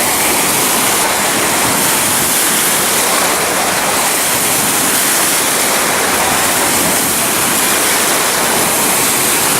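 Steady rush of falling water from a water-park waterfall or water feature.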